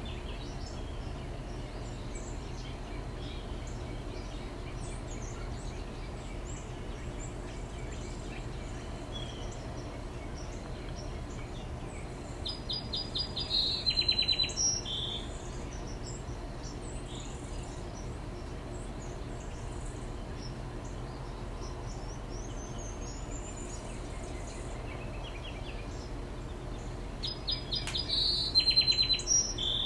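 A songbird singing twice, each phrase a quick run of rapidly repeated high notes ending in a longer note, once about halfway through and again near the end. Fainter bird calls sound between the phrases over a steady low hum.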